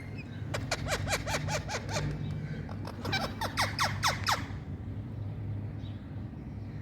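Indian ringneck parrot giving rapid runs of short, sharp squawking calls, several a second, each a quick sweep in pitch. The calls come in two runs, from about half a second in to about four and a half seconds in, and then stop.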